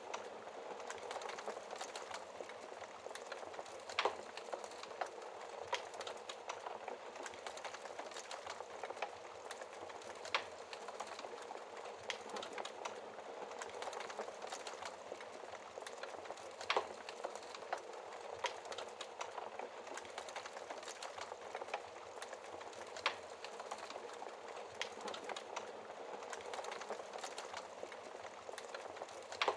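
Wood fire burning in a fireplace, crackling steadily with a soft hiss and a few louder sharp pops.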